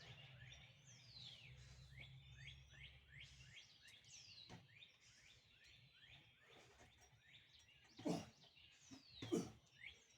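Faint birdsong: many quick, falling chirps repeating a few times a second. A low hum runs under the first few seconds, and two brief louder sounds come near the end.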